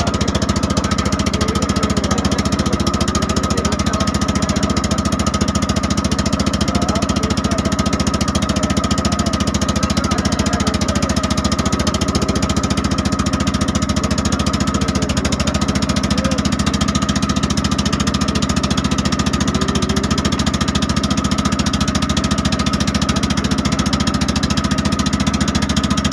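A boat's engine runs steadily at an even speed, with a fast, dense chugging and a steady high hum above it.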